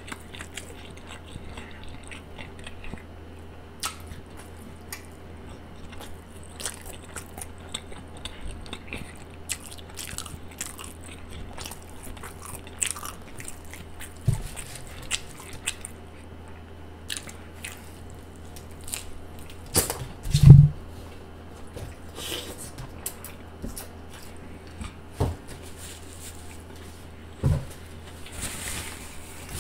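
A man chewing a mouthful of Subway sandwich close to a microphone, with crackly, wet mouth sounds and small clicks over a steady low hum. A few low thumps come through, the loudest about twenty seconds in.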